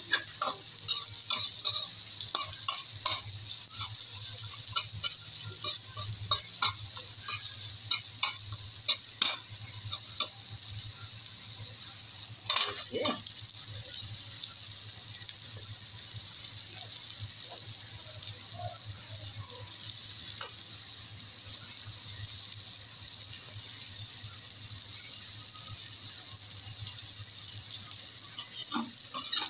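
Onions, ginger and garlic sizzling in hot oil in a wok, with a metal spatula scraping and clicking against the pan in quick strokes for the first ten seconds or so. One louder clank comes a little before halfway, then mostly steady sizzling with a few more clicks near the end.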